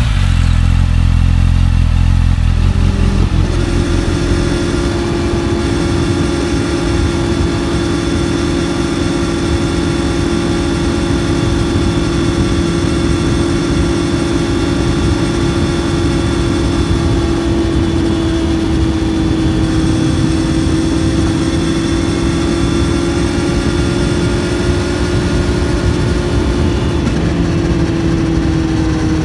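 2018 Honda CBR650F inline-four engine running under way. About three seconds in the sound changes, then it holds a nearly steady pitch, dipping slightly near the end.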